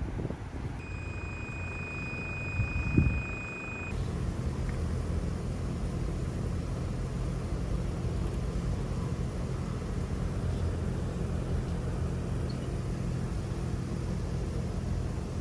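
Steady low machinery hum with a faint high whine for the first few seconds and a single thud about three seconds in; the hum becomes steadier and stronger from about four seconds on.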